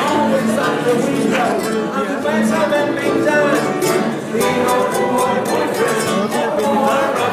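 Live song: voices singing over a plucked-string accompaniment.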